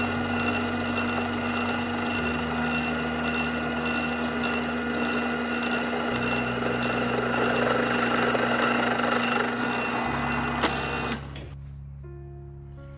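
Steady mechanical running with a fast clatter, over background music. It cuts off suddenly about 11 seconds in, leaving only the music.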